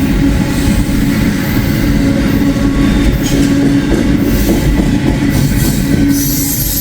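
Long freight train rolling past at close range, a steady loud rumble of wheels on rails. A thin high squeal comes in near the end.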